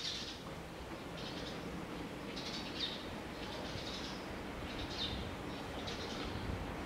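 Small birds chirping in short, high calls about once a second, over a faint low background hum.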